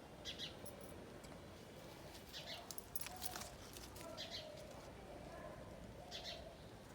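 Wild birds calling faintly: short high chirps at intervals of a second or so, with lower, drawn-out calls in the background.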